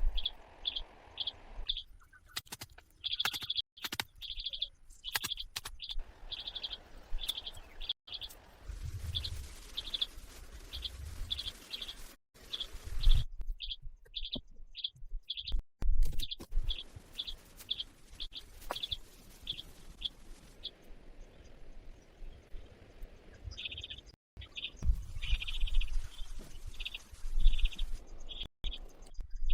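A bird calling with short high chirps, several a second, in long runs with a pause in the middle. Low thumps and rustling come and go underneath.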